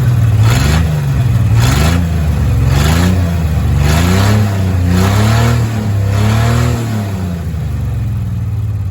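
1987 Dodge Dakota derby truck engine revved in quick blips, about one a second, then settling to a steady idle for the last couple of seconds.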